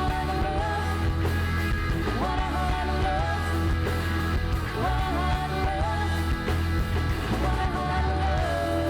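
Live rock band playing: steady bass and drums under a lead melody line that is held and bent in phrases every few seconds.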